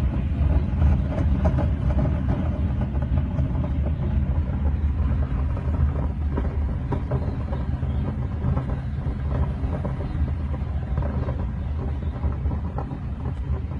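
Typhoon-force wind blowing hard against the microphone: a continuous low rumble of buffeting, with gusts and noise from the storm.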